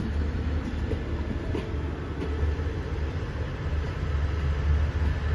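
Passenger train coaches rolling past and pulling away, a steady low rumble of steel wheels running on the rails.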